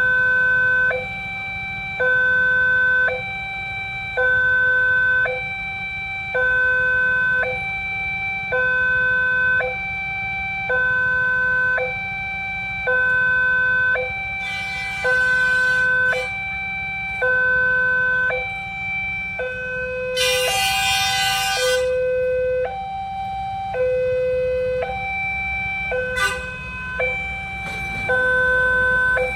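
Railway level-crossing warning alarm sounding continuously, an electronic two-tone signal that switches between a higher and a lower tone about once a second. It warns that a train is approaching and the crossing is closed. Two short bursts of noise come through about fifteen and twenty seconds in.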